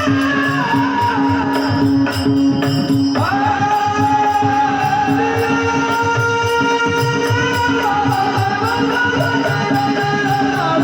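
A singer's wordless alap: long held, gliding vocal notes over a steady drone, with rhythmic percussion and jingling cymbals underneath.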